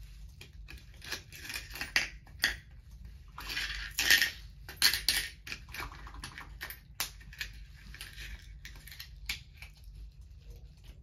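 Irregular clicks, taps and brief rustling as small objects are handled and put away, with the loudest clatter about four to five seconds in.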